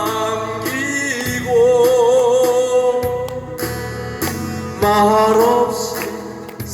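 A man singing a slow Korean ballad live over backing music, holding long notes with a wavering vibrato.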